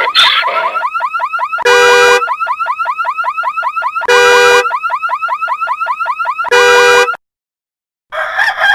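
Car alarm: a fast warbling chirp, about eight chirps a second, broken three times by a steady, louder half-second blast. It cuts off about seven seconds in, and a different sound with steady tones begins about a second later.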